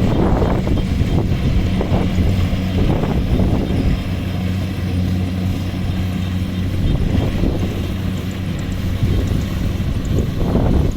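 Kubota harvesting machine's diesel engine running steadily with a constant low hum.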